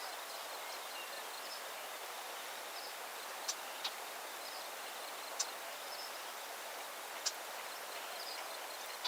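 Outdoor nature ambience: a steady, even hiss with faint, short, high chirps scattered through it and four brief sharp ticks.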